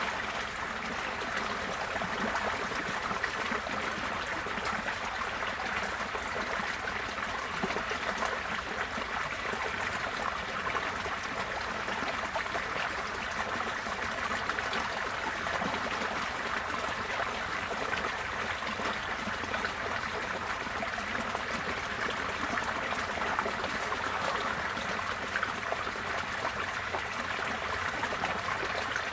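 Receding floodwater flowing in a stream, a steady, even rush of water.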